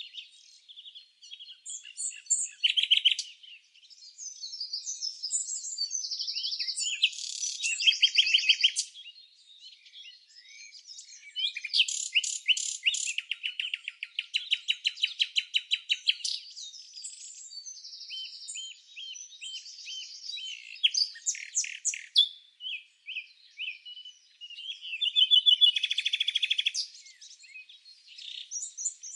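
Several songbirds chirping and singing at once: rapid trills, quick repeated high notes and short whistled phrases overlapping with hardly a break.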